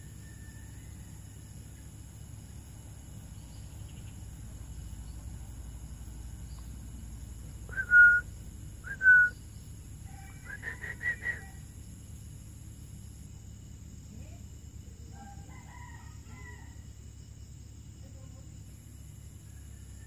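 Bird calls: two loud, short calls about a second apart, then a quick run of shorter notes and a few faint chirps later, over a steady high insect drone.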